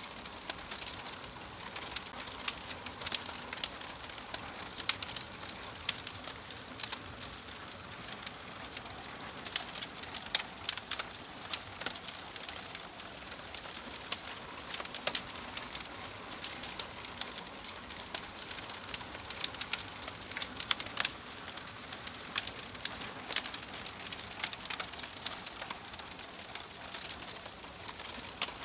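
Wood fire in a fireplace crackling: irregular sharp pops, several a second, over a soft steady hiss.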